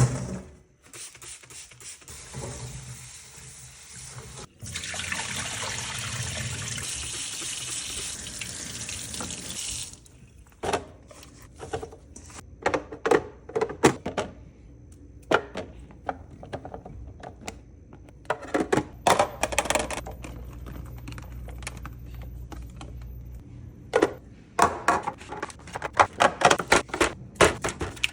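Water running steadily from a tap for about five seconds and stopping abruptly, followed by a long run of sharp clicks and clatters as containers and grocery items are handled and set down.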